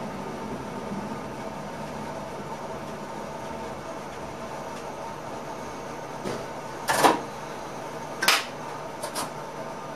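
Steady hum inside an ICM train's driver's cab, with a handful of sharp clicks and knocks between about six and nine seconds in, the loudest at about seven seconds.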